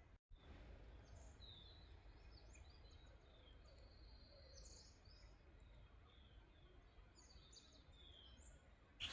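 Faint songbirds calling in the distance: many short high chirps and whistles, scattered, over a low background rumble.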